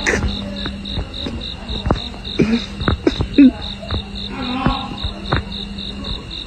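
A cricket chirping rapidly and steadily, a high chirp pulsing about six times a second, over a low steady hum, with scattered sharp knocks and a few short low sounds.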